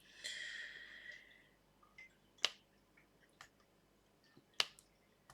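Sparse sharp taps of a diamond-painting pen setting round drills onto the sticky canvas, two of them louder than the rest. A faint, brief higher-pitched sound comes just before them, near the start.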